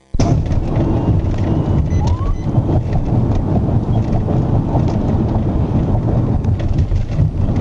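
Police patrol car driving at speed in a pursuit: a loud, steady rumble of road and wind noise.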